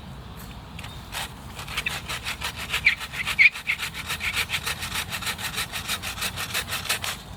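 Hand saw cutting through wood in quick, even strokes, about four or five a second, starting about a second and a half in and stopping just before the end.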